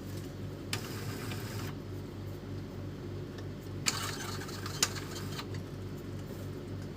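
Epson L310 inkjet printer running a test cycle: a steady motor hum with the mechanism moving and three sharp clicks. The test follows a motor swap meant to cure the print head squeaking at the end of its travel.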